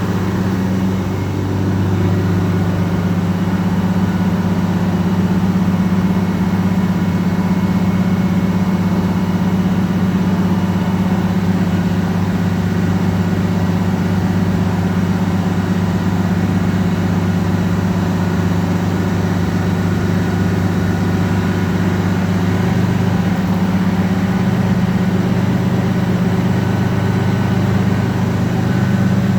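Fire truck engine running steadily to drive its water pump during a pump test, a constant low drone.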